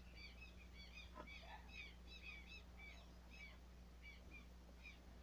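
Small birds chirping faintly, a busy stream of short, high chirps several times a second, with a low steady hum underneath.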